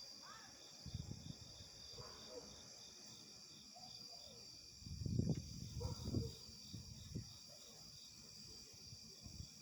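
Insects chirping in a steady, evenly spaced pulse of about three to four chirps a second over a high hiss. Low rumbling thuds come about one second in and again around the middle, the loudest part.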